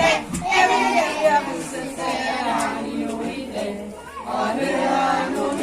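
A group of children's and adults' voices singing together, several overlapping, with pitches held for a second or so near the end.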